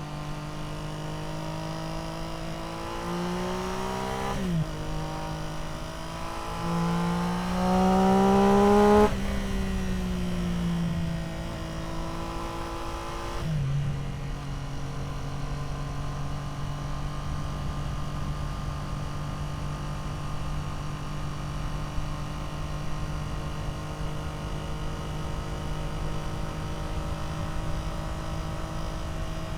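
Triumph Street Triple R's inline three-cylinder engine through an Arrow exhaust. It accelerates hard twice, the pitch climbing and then dropping sharply as the gear changes, and is loudest about nine seconds in. It then slows with a falling pitch for a few seconds and settles into a steady cruise.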